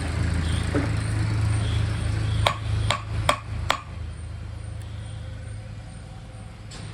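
A steady low electrical hum, then four sharp clicks about half a second apart, after which the hum drops away.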